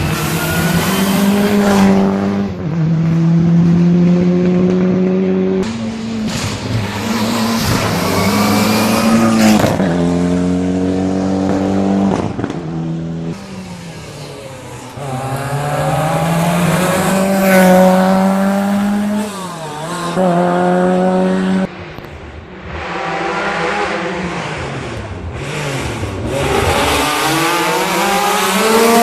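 Rally car engine pulled hard on a special stage: the pitch climbs and drops back again and again as it shifts up through the gears, with falling stretches as it comes off the throttle and slows, then picks up again.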